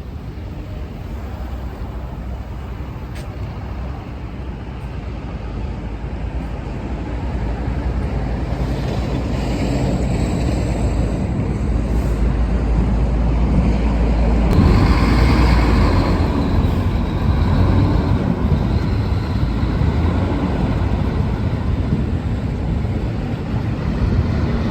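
Low engine rumble of a large vehicle, growing louder through the first half and loudest about fifteen seconds in.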